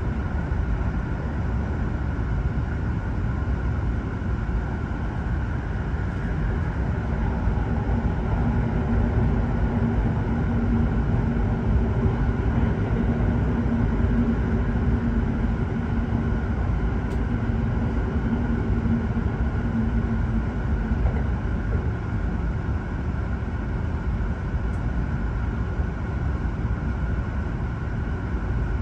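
Steady running noise inside the cabin of an E7 series shinkansen at speed: a low rumble, with a steady hum added from about eight to twenty seconds in.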